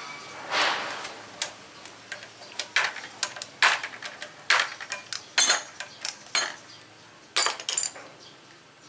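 Metal tools and engine parts clinking and knocking as they are handled, about fifteen irregular sharp strikes with a short cluster near the end.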